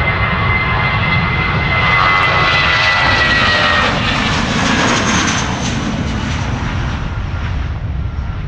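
Airbus A320-200 jet engines running loud as the airliner goes by, with a high whine slowly falling in pitch. The roar swells about two seconds in and eases off after about five seconds.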